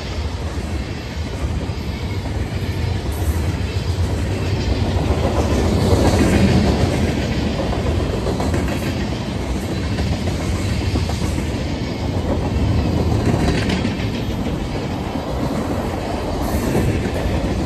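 Freight train cars rolling past: a steady rumble of steel wheels on rail, with clicks as the wheels cross rail joints.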